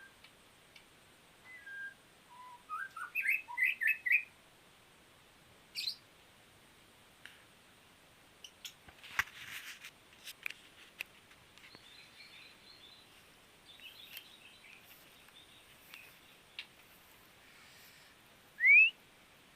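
Pet songbird calling in short chirps, loudest in a quick cluster a few seconds in, with scattered clicks and a rustle midway. A single loud rising whistle comes near the end.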